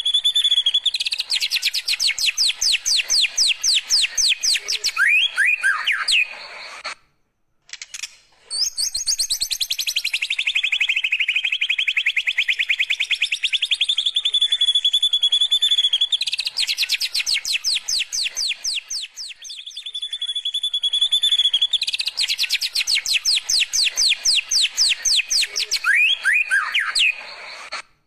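White-rumped shama (murai batu) singing its rapid-fire song: a held high whistle that breaks into long runs of fast, sharp repeated notes, with a few downward-sweeping calls. The song breaks off briefly about seven seconds in and again near the end, and the same phrase sequence repeats.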